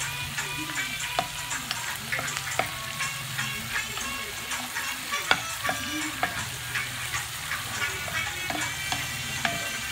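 Water spinach stir-frying in a hot metal pan: steady sizzling and crackling, with a wooden spatula scraping and clacking against the pan, the sharpest knock about five seconds in.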